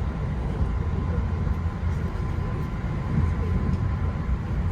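Steady low rumble of a moving JR Special Rapid Service electric train, heard from inside the passenger car, with a faint steady whine.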